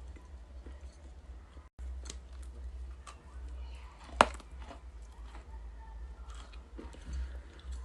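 Dry edible clay handled and bitten close to the microphone: scattered small clicks and crackles, with one sharp crack about four seconds in. A steady low hum runs underneath.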